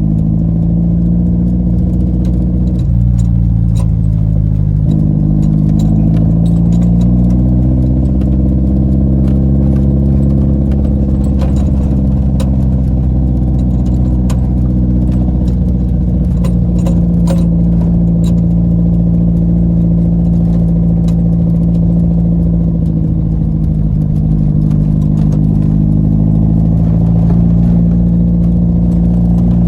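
Car engine running while the car is driven, its pitch falling and climbing again with the throttle, including a sudden drop about three seconds in. Light rattles and clicks are heard throughout.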